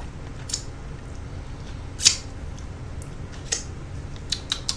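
Cheese puffs crunching as they are chewed: a handful of short, sharp crunches, the loudest about two seconds in, over a steady low hum.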